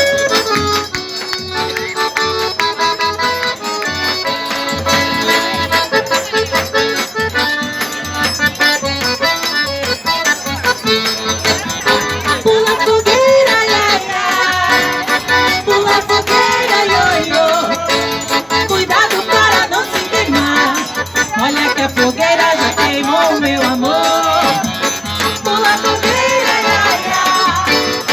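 Forró trio playing: accordion carrying the melody over a steady, even zabumba drum beat.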